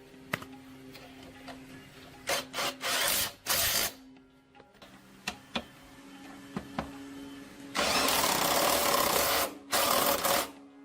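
Power tool running in bursts: a few brief ones, then a run of about two seconds and a shorter one near the end, with small clicks of tools being handled in between.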